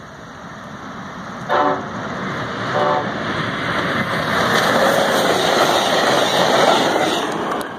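Horn of a Siemens Charger diesel-electric locomotive sounding two short blasts, about a second apart, then the rushing noise of the locomotive and its bilevel passenger cars passing at speed, which builds up and is loudest in the last three seconds before cutting off.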